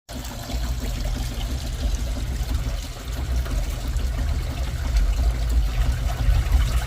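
Water trickling steadily over a heavy, uneven low rumble.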